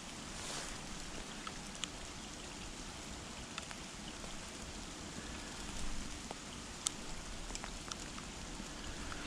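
Steady rain falling, with scattered raindrops ticking sharply on nearby surfaces.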